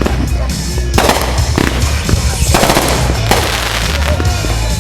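Fireworks going off in quick succession: big bursts about every second with crackling between them, over music with a steady low bass.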